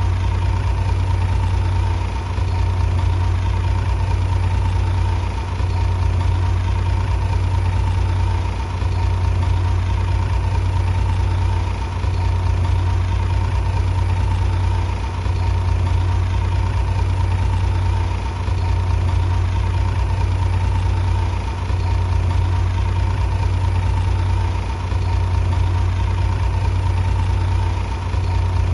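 Bulldozer's diesel engine running steadily with a deep hum and a faint steady whine, dipping briefly about every three seconds.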